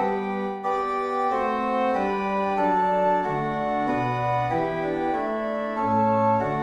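Organ playing a slow piece in held chords, the chords moving every half second to a second, with a bass line underneath.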